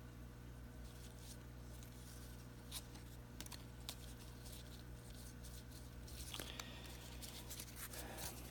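Faint clicks and light rustling of baseball trading cards being handled and turned, over a steady low hum.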